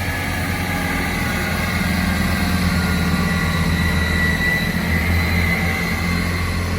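Two-car Class 158 diesel multiple unit pulling out of the station, its underfloor diesel engines running under power with a steady low hum that grows a little louder in the middle and eases near the end.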